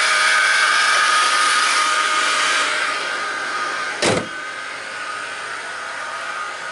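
Old car's engine running steadily just after a cold start, a loud hiss with a held whine that fades after a few seconds. About four seconds in comes one sharp thump, after which the running sound is quieter.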